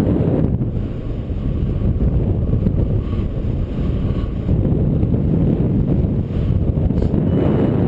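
Strong wind buffeting the microphone in flight, a loud, dense rushing rumble. Near the end a few short, high electronic beeps start.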